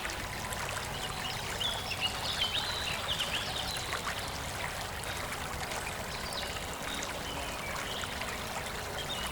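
Steady rush of flowing stream water, with scattered short bird chirps above it.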